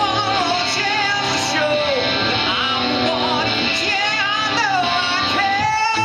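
Live band playing a rock song, a vocalist singing the melody over guitar.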